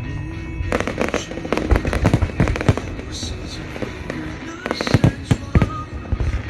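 Fireworks going off: quick clusters of sharp bangs and crackles, with three bursts of rapid reports, the last about five seconds in.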